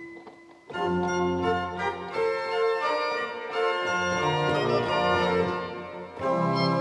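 Pipe organ with mechanical tracker action playing. After a brief lull it comes back in about a second in with full sustained chords and moving lines, eases off briefly near the end, then resumes.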